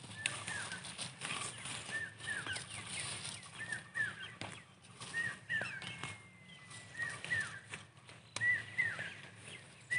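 A bird calling over and over: short chirps that drop in pitch, in twos and threes every second or two, with one longer thin whistle near the middle, over a steady background hiss.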